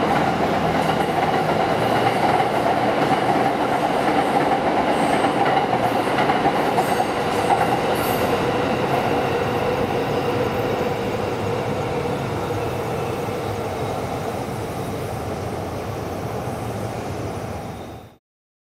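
Electric commuter train running past on its line, a steady rumble of wheels on rail that slowly fades as it moves away, then cuts off abruptly shortly before the end.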